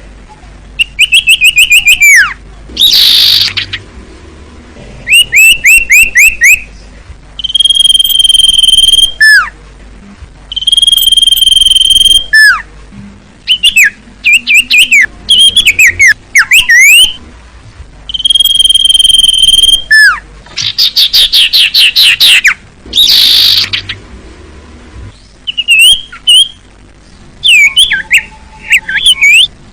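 Sirtu cipoh songbird singing continuously and loudly. It alternates long, steady whistled notes with fast trills of sweeping up-and-down notes, and gives a harsh, rasping burst twice, about three seconds in and again about twenty-three seconds in.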